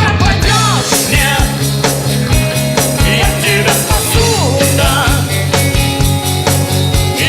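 A song performed live with a steady drum beat and bass, a singer's voice gliding over the accompaniment.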